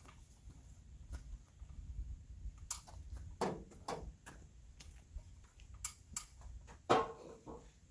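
Scattered, irregular knocks and clicks of hands-on carpentry work on a timber frame, several sharper thuds among lighter ticks.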